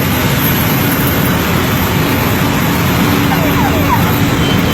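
Small propeller plane's engine running steadily, heard from inside the cabin with a heavy rush of air noise, during a descent toward a forced landing on a river.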